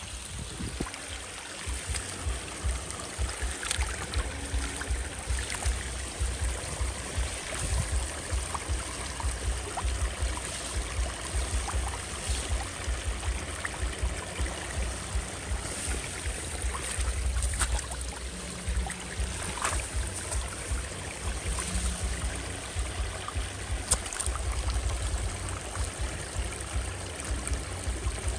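Running, trickling water with a low, unsteady rumble underneath and scattered small clicks and splashes.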